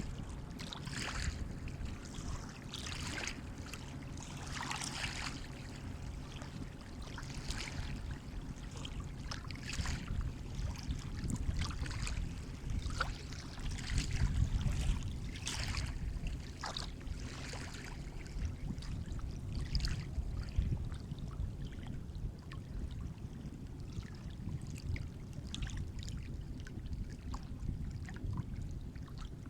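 Sea water lapping and splashing close by: many small, quick splashes over a steady low rumble of surf, the splashing busier in the first half and thinning out toward the end.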